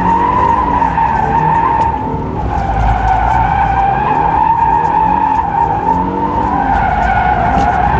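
2024 Toyota GR86's tyres squealing without a break through a sustained drift. Beneath the squeal, the car's 2.4-litre flat-four engine revs up and down as the throttle is worked.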